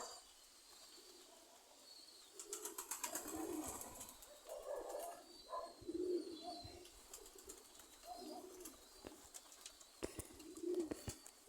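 Domestic pigeons cooing repeatedly in low, rounded calls, with scattered short clicks in between.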